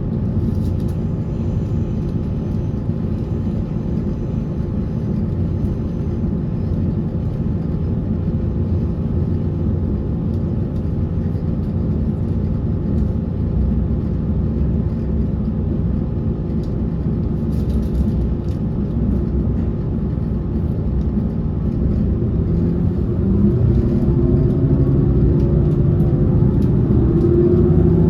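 Taiwan Railways electric train running, heard from inside the car: a steady rumble of wheels on rail. Over the last few seconds a motor whine rises in pitch and the sound grows a little louder.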